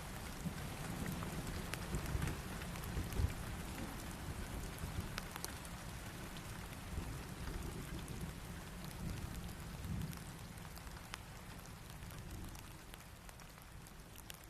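Steady rain falling, with scattered drops ticking and a low rumble underneath, fading out near the end.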